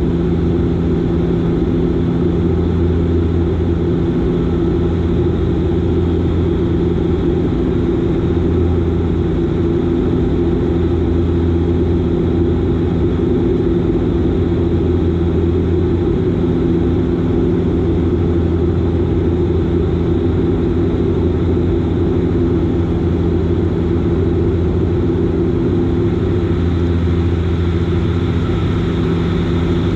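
Bombardier Dash 8 Q400's turboprop engines and six-bladed propellers droning in flight: a loud, steady hum with several steady low tones that do not change.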